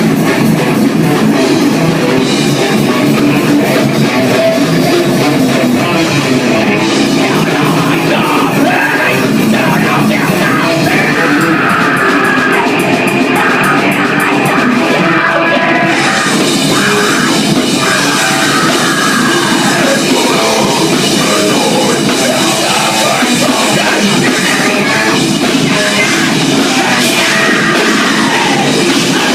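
Live heavy rock band playing loudly, with distorted electric guitars and a drum kit.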